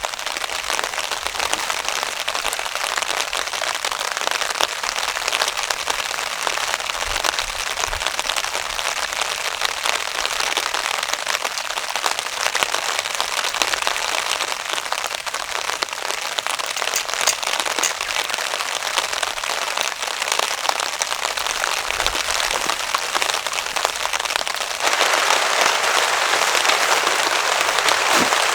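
Heavy rain pattering on a tarp overhead, a dense, steady patter of drops. It grows louder near the end.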